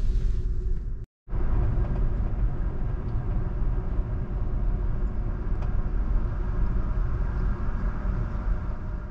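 Steady low rumble of a large car ferry's engines heard aboard. It drops out for a moment about a second in and fades away near the end.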